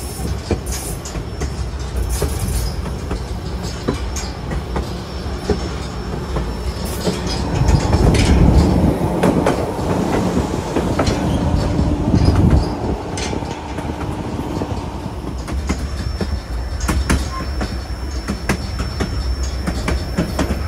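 White Pass & Yukon Route narrow-gauge train rolling along the track: a steady rumble with the wheels clicking over rail joints, louder for a few seconds in the middle. A thin, steady high-pitched wheel squeal sets in toward the end.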